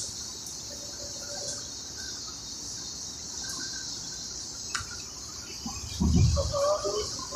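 Steady high-pitched insect chorus, a continuous shrill drone. About six seconds in, a louder low rumble with a brief knock cuts across it.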